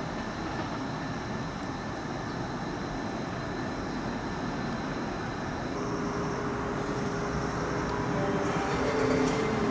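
Keihan electric train running on the tracks at the station, the rumble growing louder, with steady tones joining about six seconds in.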